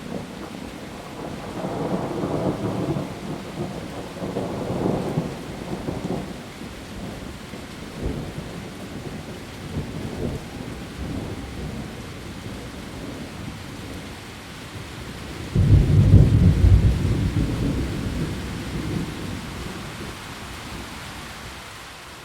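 Steady heavy rain with thunder: low rolls of thunder early on, then a sudden loud thunderclap past the middle that rumbles away over several seconds.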